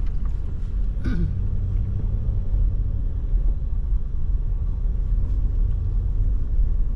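Pickup truck driving slowly, giving a steady low rumble of engine and road noise, with a brief vocal sound about a second in.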